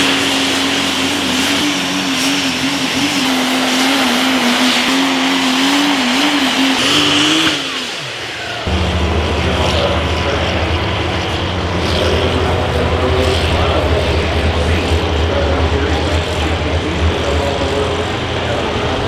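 Multi-turbocharged super stock diesel pulling truck engine held at high revs, wavering slightly, then falling off about seven seconds in. About a second later it gives way abruptly to a deep, steady diesel rumble that lasts to the end.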